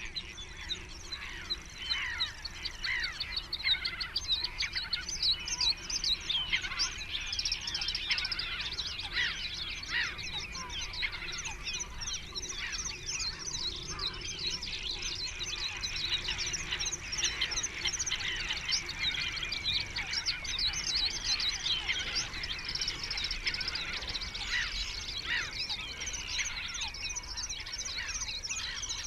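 Wild birds calling and singing: a dense run of many quick, high, overlapping chirps and trills.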